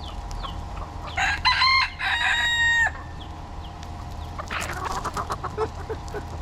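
A rooster crows once, about a second in, a call of nearly two seconds in two parts ending on a long held note, with hens clucking and chicks peeping around it.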